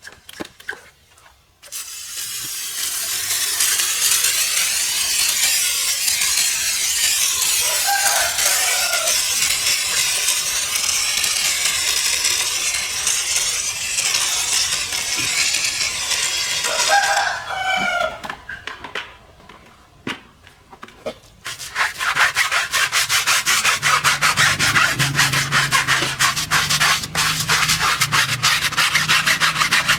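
Car cleaning by hand: a steady hissing scrub for about fifteen seconds, then after a short pause quick back-and-forth brush strokes, several a second. Twice a short call, like a rooster crowing, is heard faintly under the scrubbing.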